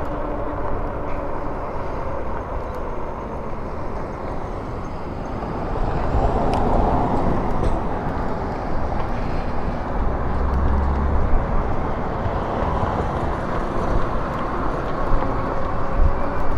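Wind noise on the microphone and road noise from riding an electric bike along a town street, a steady rumbling hiss that grows somewhat louder about six seconds in.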